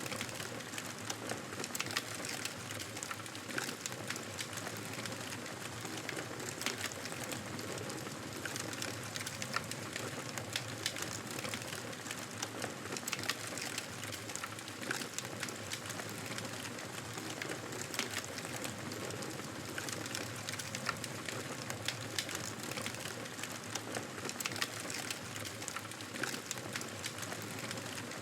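Wood fire burning in a fireplace: a steady hiss of flames with frequent small crackles and pops scattered throughout.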